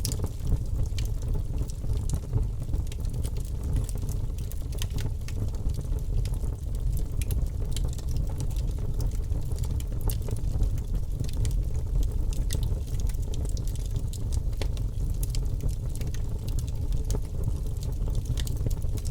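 Wood fire crackling in a fireplace: a steady low rumble of flames with frequent small sharp pops and crackles.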